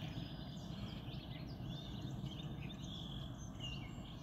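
Outdoor ambience of birds chirping and calling, many short chirps, over a steady low background rumble.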